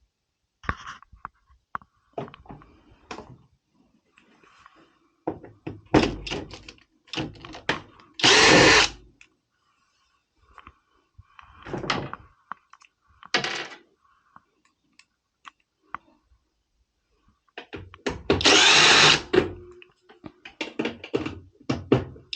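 Cordless screwdriver run in several short bursts of about a second, backing out the screws holding a washing machine's front panel, with clicks and clatter of screws and panel being handled in between.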